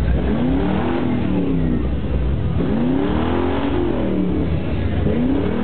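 Car engine being revved again and again, its pitch climbing and falling with each blip of the throttle over a steady low rumble.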